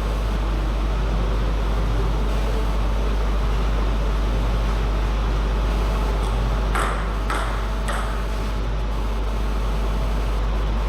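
Table tennis ball hits on bats and table, with three quick sharp hits about half a second apart around seven seconds in. A steady low hum runs underneath.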